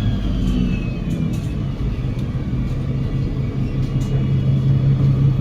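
Double-decker bus's Cummins L9 diesel engine and Voith automatic gearbox heard from inside the bus while it is under way: a steady low drone, with a faint high whine falling in pitch in the first second or so.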